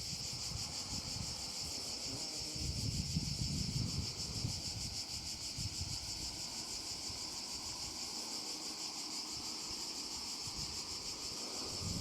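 Steady shrill insect chorus, a rapid high pulsing with no let-up, with gusts of wind rumbling on the microphone now and then.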